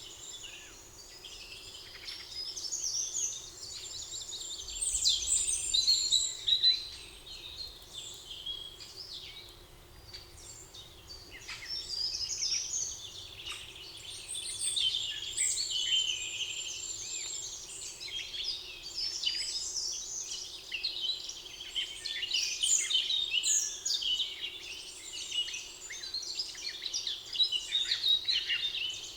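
Several songbirds singing at once: overlapping chirps, trills and warbles that come and go, over a faint steady background hum.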